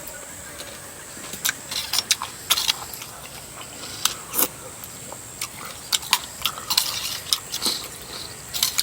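Eating sounds close to the microphone: irregular wet smacks and clicks of chewing and sucking, coming thickly from about a second and a half in.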